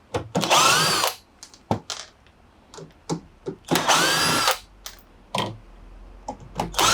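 Cordless drill-driver whirring in three short bursts, each rising and falling in pitch as the motor spins up and stops, with small clicks between: backing out the Torx screws that hold a washing machine's drain pump.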